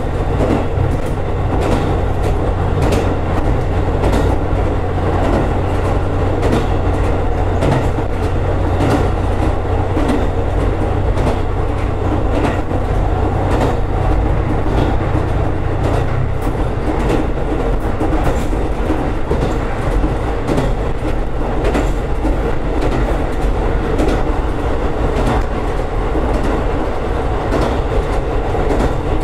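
Diesel railcar running on the Senmo Main Line, heard from aboard: a steady rumble with wheels clicking over rail joints, and a low hum that drops away about halfway through.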